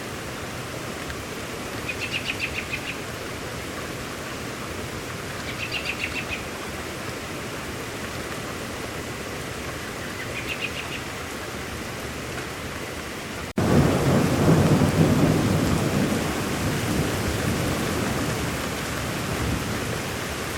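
Steady rain hiss, with a bird's short trilled call three times. About two-thirds of the way in the sound cuts abruptly to heavier rain, with a low rumble of thunder that fades away.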